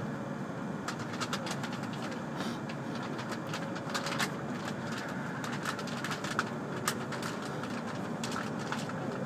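Running noise heard inside a W7 series Shinkansen car: a steady rumble, with a run of irregular sharp clicks and ticks starting about a second in.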